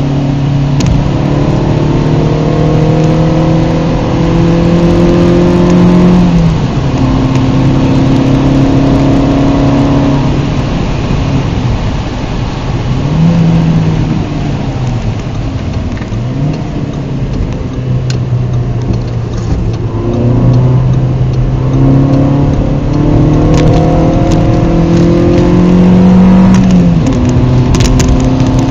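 Seat Ibiza SC's engine heard from inside the cabin as the car is driven along: the engine note climbs gradually under acceleration and drops sharply at each gear change or lift-off, several times, over steady tyre and road noise.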